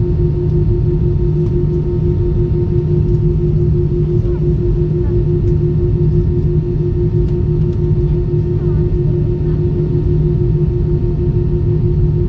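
Steady cabin noise of a LATAM Airbus A320: a loud, even low rumble with a constant hum tone running through it.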